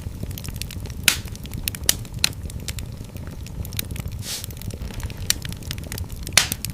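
Fire crackling in a fireplace: a steady low rumble of flames with irregular sharp pops, the loudest about a second in and near the end, and a brief hiss a little past four seconds.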